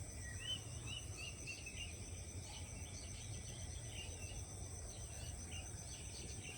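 Insects droning steadily at a high pitch, with a bird giving many short, arched chirps that come in clusters, over a low rumble.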